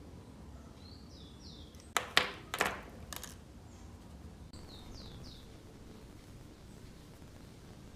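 Four short, sharp scraping strokes in quick succession about two to three seconds in, with birds chirping faintly in the background.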